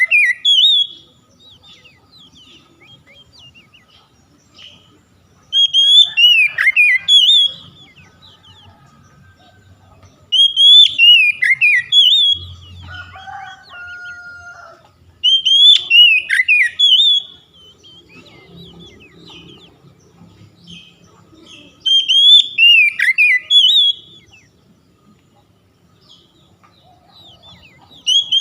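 Oriental magpie-robin (kacer) song: a loud phrase of whistled, sweeping and falling notes, about two seconds long, repeated five times at even spacing of roughly five to six seconds, with quiet gaps between.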